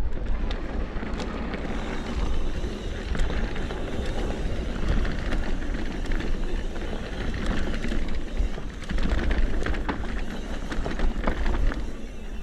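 Mountain bike ridden over a rough dirt trail: steady wind buffeting on the microphone and tyre noise, with frequent clicks and knocks from the bike rattling over the ground.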